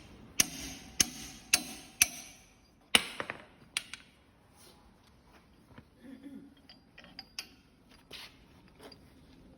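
Sharp metal knocks during roller mill disassembly: five hard strikes about half a second apart in the first three seconds, each ringing briefly, then lighter clicks and clinks of parts being handled.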